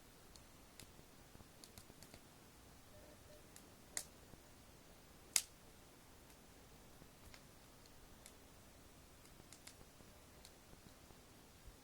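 Wood fire crackling faintly: scattered small crackles, with two louder pops about four and five and a half seconds in.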